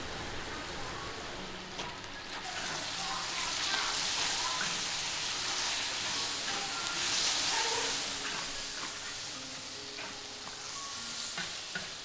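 Sliced pig ears sizzling and frying in sauce in a large wok while being stirred with a wooden spatula. The sizzle grows louder about two and a half seconds in and eases off near the end.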